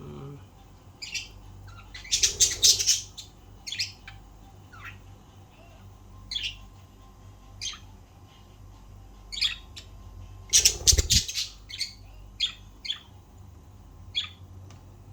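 Pet budgerigars chirping: short high chirps scattered throughout, with two louder flurries of rapid chirping about two seconds in and near eleven seconds.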